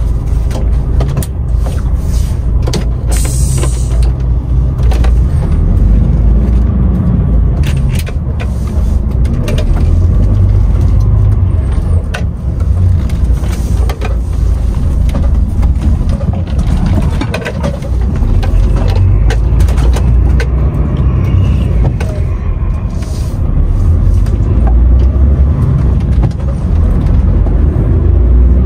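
DAF XF510 lorry under way, heard from the cab: its six-cylinder diesel and the road noise make a loud low rumble that swells and eases every few seconds, with a few brief knocks.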